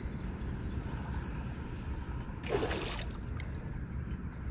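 A bird gives a few short whistles that slur downward, over a steady low background noise. About two and a half seconds in there is a brief, noisy rushing sound.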